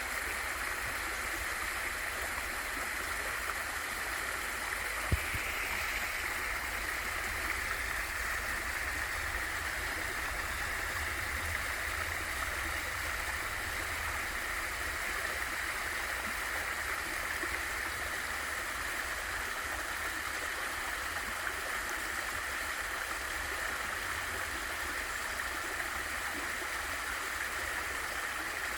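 Small waterfall in a valley stream, water falling and rushing in a steady, even stream of sound. A single brief low thump comes about five seconds in.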